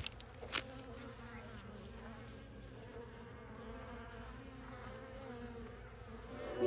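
Many honeybees buzzing in flight around the hives, a steady wavering hum. Two sharp clicks come near the start, about half a second apart.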